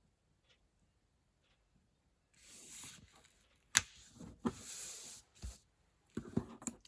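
Card stock and paper being handled on a craft table: a couple of seconds of quiet, then rustling and sliding, a sharp click, a low thump and more handling clatter.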